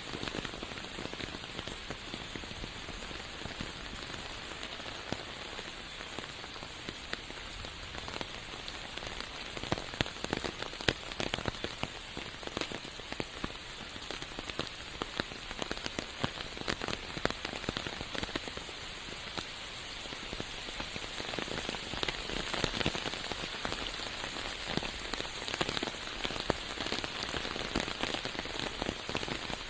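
Rain falling in a forest: a steady hiss with many sharp, separate drop hits close by, growing a little louder past the middle.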